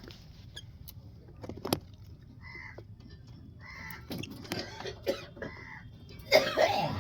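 Young birds giving a few short, harsh calls, with scattered light taps and scratches as they move about in a clay pot. A louder, rougher burst comes near the end.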